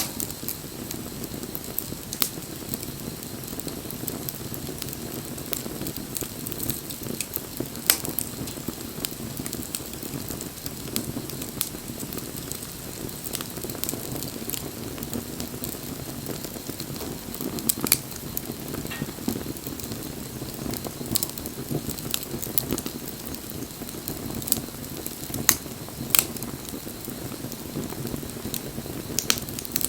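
Wood bonfire burning: a steady rush of flame with frequent sharp crackles and pops, a few of them much louder than the rest.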